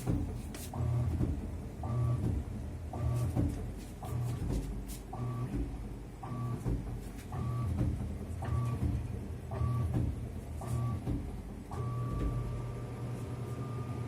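2019 Sanyo washing machine's motor running in short back-and-forth strokes, each with a whine over a low hum, about once a second; a little before the end it changes to one continuous whine that creeps up in pitch. The owner films it as an abnormal noise from the new machine.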